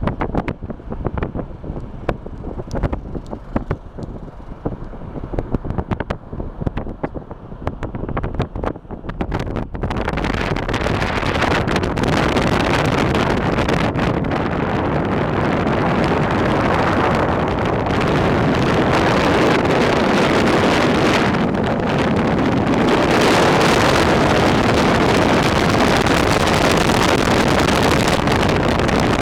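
Wind buffeting the microphone in uneven gusts, mixed with road traffic noise; about ten seconds in it turns into a loud, steady rush.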